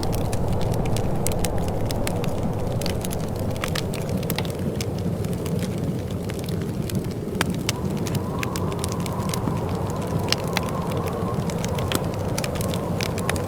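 Wood fire crackling in a fireplace: frequent irregular sharp pops and snaps over a steady low rumble of burning. Past the middle, a faint wavering whistle of wind comes in.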